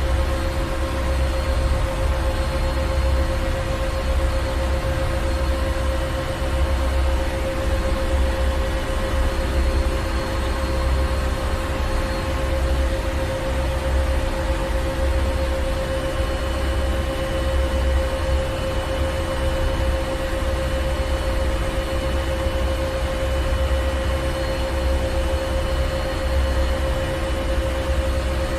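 Ship's engine room machinery running steadily: a deep, unevenly throbbing rumble under a constant hum of several steady tones and a hiss.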